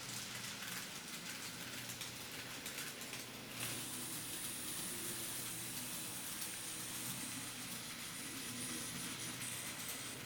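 N scale model of a 207 series electric train running on its track, with a fine rapid clicking of wheels on the rails. About three and a half seconds in, a thin high-pitched steady whine sets in and carries on.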